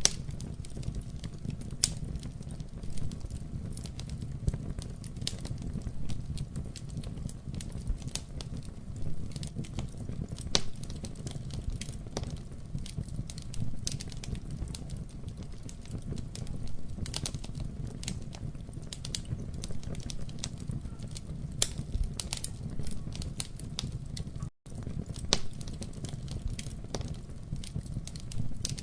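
Wood fire in a fireplace crackling, with frequent sharp pops and snaps over a steady low rumble of the flames. The sound cuts out for an instant about two-thirds of the way through.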